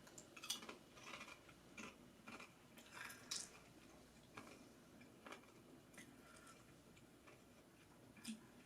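Faint crunching and chewing of a small cheddar-flavored cauliflower cracker: crisp clicks come thick and fast for the first three seconds or so, then thin out to occasional crunches as it is chewed down.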